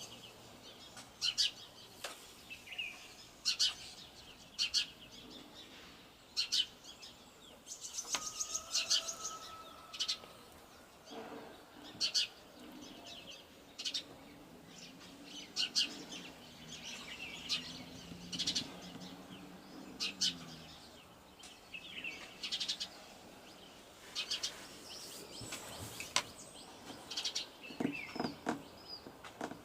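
Wild songbirds chirping, short high calls every second or so. A faint low hum wavers in pitch through the middle stretch.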